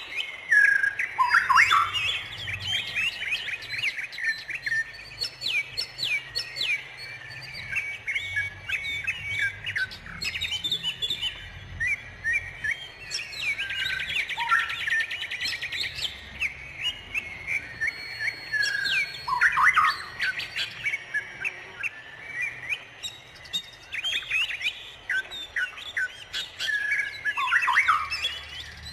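Many wild songbirds chirping and calling at once, a dense chorus of overlapping high chirps and trills. A fast trill comes about halfway through, and now and then a louder call sweeps down in pitch.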